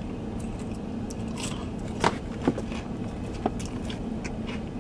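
A person chewing thin-crust pizza, with a few short sharp mouth clicks and crunches, over a steady low hum inside a car cabin.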